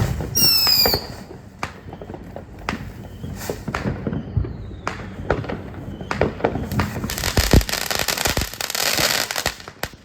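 Backyard consumer fireworks going off: a short whistle falling in pitch about half a second in, then repeated sharp bangs and pops, and a long dense crackling from about seven seconds in until just before the end.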